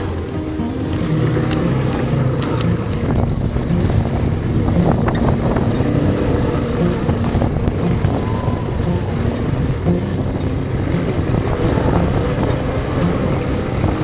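An ATV (quad bike) engine running steadily while riding.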